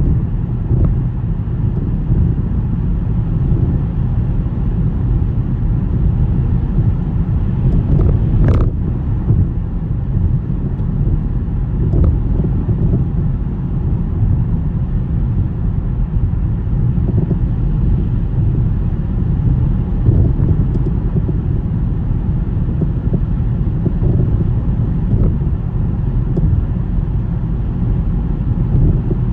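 A car driving on a snowy road: a steady low rumble of road and engine noise, with one brief sharp knock about eight seconds in.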